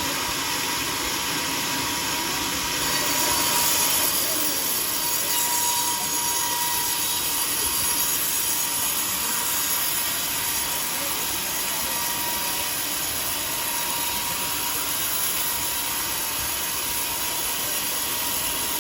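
Sawmill saw running steadily: a dense mechanical hiss with a thin steady whine, swelling slightly about three to four seconds in.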